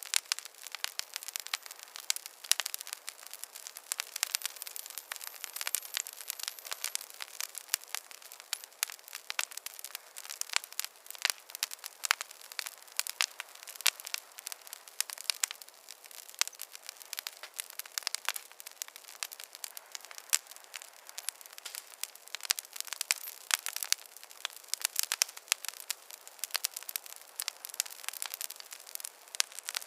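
Fireplace fire crackling: a constant run of irregular small pops and snaps over a soft hiss, thin, with no low rumble.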